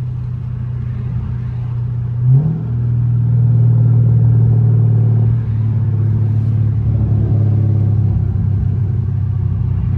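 Straight-piped 392 HEMI V8 of a Dodge Charger Scat Pack droning at a steady cruise, heard from inside the car. About two seconds in there is a brief rise in pitch, after which it runs a little louder.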